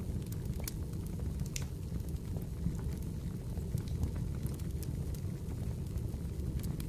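Fireplace fire crackling: a steady low rumble of the flames with irregular sharp pops and snaps scattered throughout.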